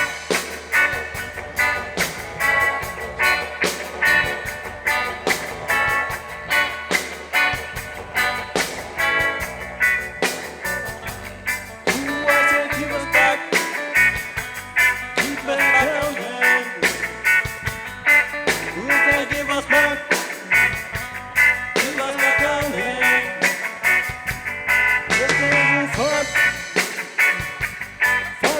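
Reggae band playing live: an instrumental passage between verses, with drums keeping a steady beat under guitar and other instruments.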